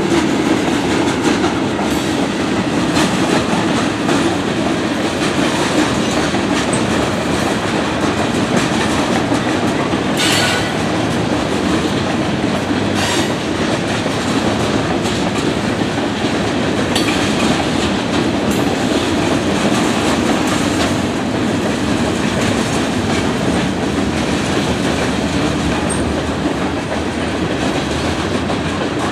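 A freight train rolling past at a grade crossing: a steady rumble with wheels clacking over the rail joints. A couple of brief sharp metallic noises come about ten and thirteen seconds in.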